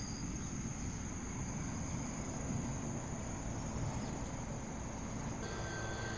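Insects chirring in a steady, high-pitched, unbroken trill over a continuous low rumble.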